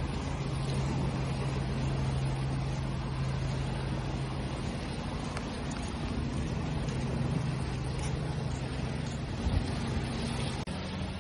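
Continuous wash of waves with a steady low motor hum underneath that changes in pitch near the end.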